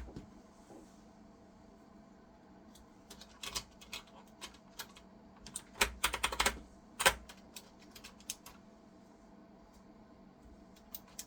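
Keys on a computer keyboard being pressed: irregular sharp clicks in scattered groups, with a quick flurry of presses about six seconds in.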